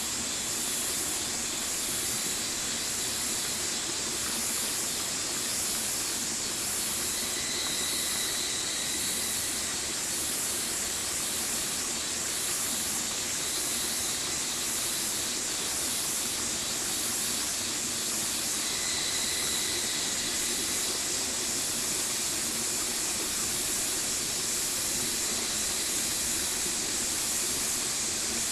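Stream water flowing steadily, a constant rushing hiss. Above it a high-pitched sound pulses evenly a little under once a second.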